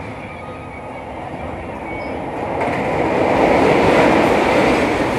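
Passenger train running along the line, a steady rush of wheel and rail noise that swells markedly louder about three seconds in.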